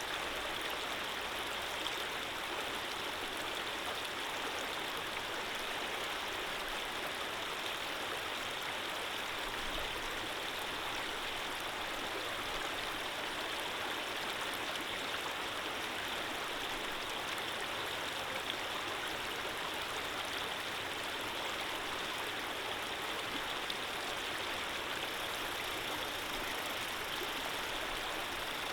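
Running water of a stream flowing, a steady even rush without breaks.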